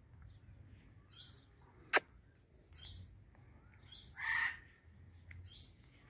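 A bird chirping repeatedly: four similar short, high calls, about one every second and a half. A single sharp click comes about two seconds in.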